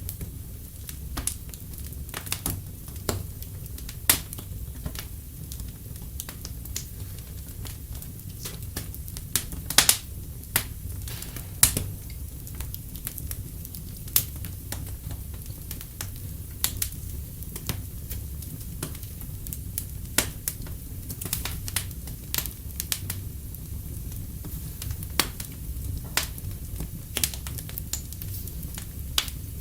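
Fireplace crackling: irregular sharp pops and snaps over a low steady rumble, with a few louder pops about four, ten and twelve seconds in.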